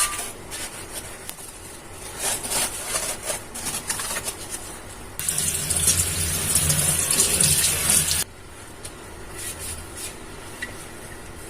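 Kitchen tap running into a sink for about three seconds and shut off abruptly, with light scrubbing and clinking of things being washed before and after.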